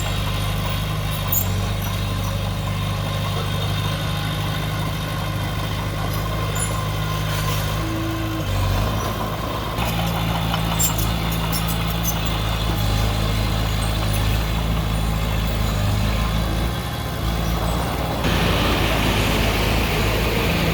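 Heavy diesel earthmoving machinery running steadily at a deep, even pitch, with scattered sharp metallic clinks. The engine note shifts a couple of times, and a louder hiss comes in near the end.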